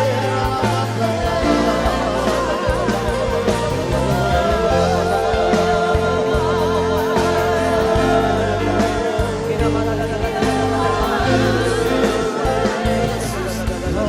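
Live worship band playing a slow praise song, with a singer's wavering held notes over steady bass and keyboard chords.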